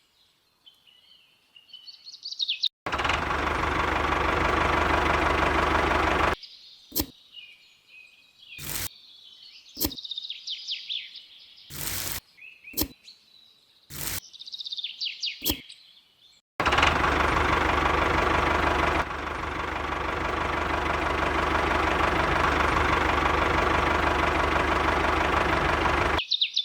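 Birds chirping, broken by stretches of a small motor running steadily: one of about three seconds and a longer one of about ten seconds. Each starts and stops abruptly, with several brief snatches of motor sound in between.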